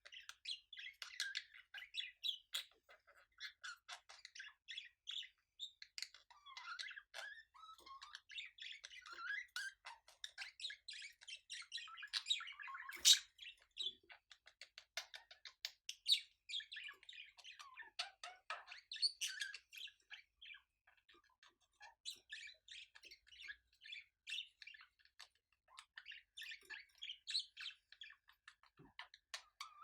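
Budgerigars chattering and warbling in quick, continuous runs of chirps and squawks: the mating sound of a courting pair. There is one sharp click about halfway through.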